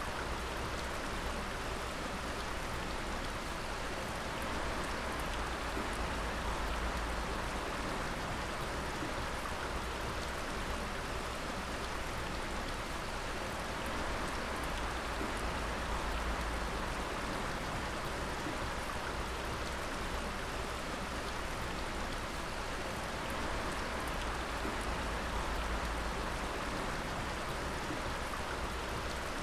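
Water dripping steadily in a dense, even patter of drops over a continuous wash of running water.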